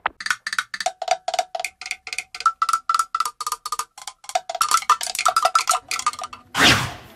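Fast cowbell-like percussion in an added music track: even strikes, several a second, ringing on a lower and then a higher note. A loud burst of noise comes near the end.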